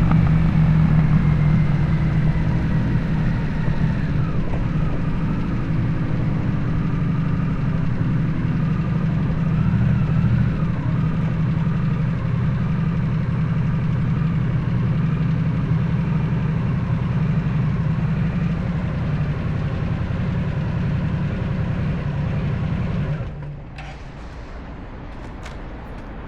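Harley-Davidson Nightster's Revolution Max 975T V-twin, with a Jekill & Hyde adjustable-valve exhaust, running with a steady deep rumble. The engine cuts off suddenly about 23 seconds in, leaving quieter background with a few clicks.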